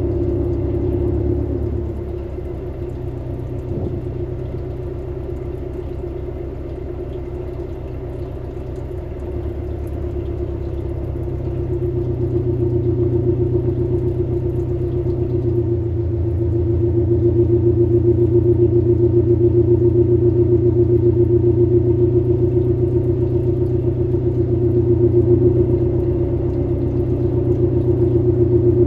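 Subaru Levorg's 1.8-litre turbocharged flat-four (boxer) engine idling steadily through an STI performance muffler, warmed past the high cold-start idle. Its sound drops a little about two seconds in and grows fuller again from around halfway.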